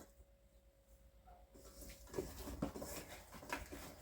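Faint, irregular taps and clicks of kitchen utensils and dishes being handled, starting after about a second and a half of near quiet.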